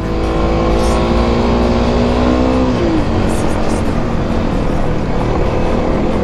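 Kawasaki KLX250's single-cylinder four-stroke engine pulling on a climb, with wind rumble on the microphone. Its revs sag slowly for the first few seconds, then drop away about three seconds in, and it runs on rougher.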